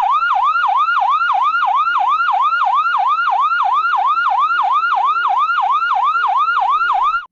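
Electronic ambulance siren in a fast yelp, its pitch swooping down and back up about three times a second, cutting off suddenly near the end.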